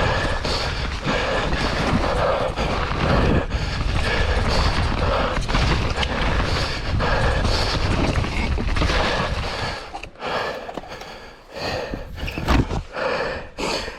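Downhill mountain bike rolling down a wet, rough trail: a steady rush of riding noise with frequent knocks and rattles over the ground, easing to a few scattered knocks about ten seconds in as the bike slows to a stop.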